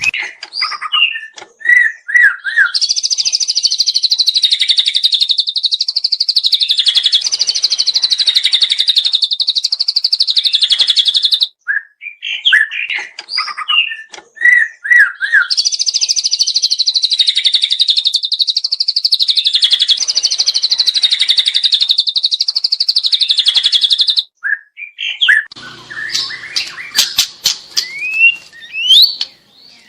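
White-rumped shama (murai batu) singing in the 'trotol' style: a few short chirping notes, then a long, very fast rattling trill of about eight seconds, the same phrase given twice. Near the end come varied short calls and sharp clicks.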